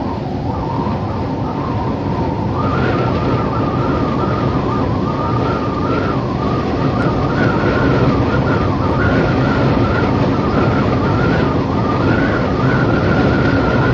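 Howling wind: a steady rush with a wavering whistle on top that rises a little in pitch after a few seconds and grows slightly louder.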